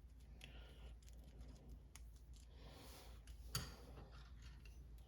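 Near silence with faint scattered clicks of small metal tools or parts being handled, and one sharper click about three and a half seconds in.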